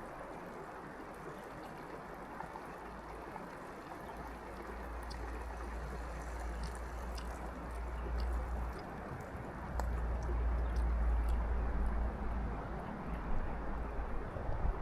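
Steady rushing outdoor noise with wind buffeting the microphone, a low rumble that starts about four seconds in and is strongest in the second half.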